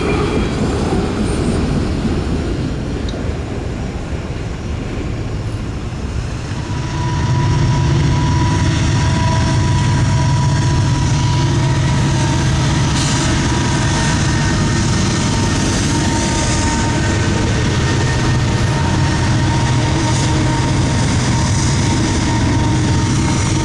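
A train passing: a steady rail rumble with a faint held squeal, louder from about seven seconds in.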